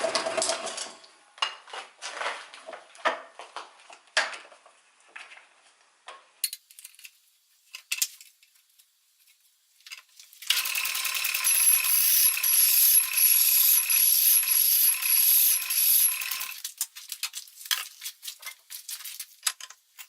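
Hand file scraping the spinning register step of a lathe chuck adapter plate on a Seneca Falls Star 10 lathe, sizing it to fit the 3-jaw chuck. It starts with short scrapes and clicks, goes quiet, then about ten seconds in there is a continuous run of filing lasting around six seconds with a pulsing edge, then scattered clicks again.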